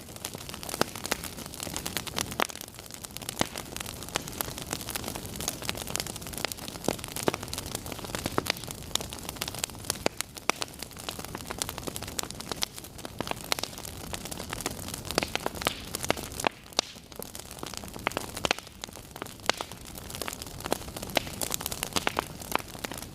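Wood fire burning with continuous irregular crackling and popping over a steady hiss.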